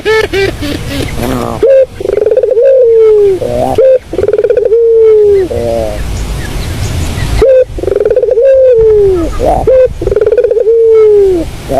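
Burung puter (Barbary dove) cooing loudly: each phrase is a short note followed by a long coo that falls slightly in pitch, heard four times.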